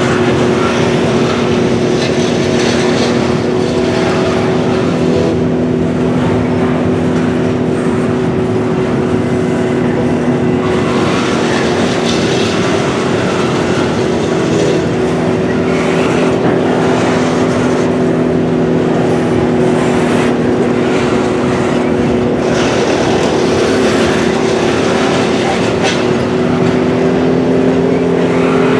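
Double-stack intermodal container cars rolling past: a loud, steady rumble of steel wheels on the rails with a constant hum.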